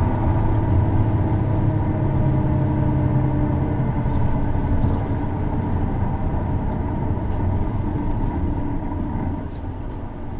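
Isuzu Erga city bus's inline-six diesel engine running under way, heard from inside the cabin: a steady engine drone that eases off about halfway through and drops again near the end. This bus's engine is known for a distinctive abnormal noise.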